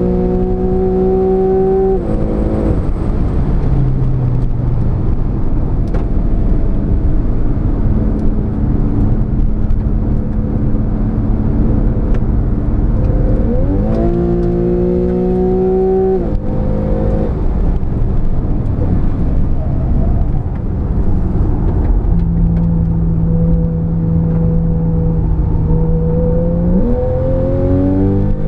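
Porsche 911 Carrera S (991) 3.8-litre flat-six engine driven hard on a race circuit. Its pitch climbs under acceleration and falls away sharply twice, once just after the start and once about midway. Steadier running comes between, and it climbs again near the end, over a constant low rumble of road and wind noise.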